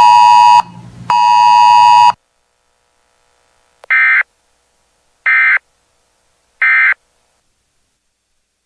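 Weather radio alert ending: a steady electronic tone cuts off, a second tone sounds for about a second, then three short, evenly spaced data bursts follow: the SAME end-of-message code of a NOAA Weather Radio alert.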